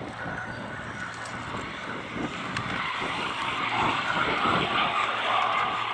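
Aircraft noise, a broad rushing sound that swells from about three seconds in and is loudest near the end.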